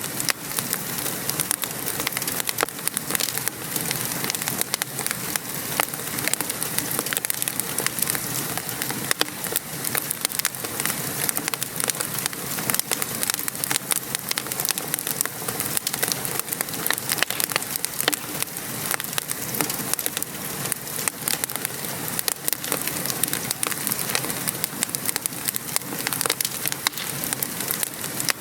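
Steady patter of rain with a wood fire crackling over it in many small, sharp pops.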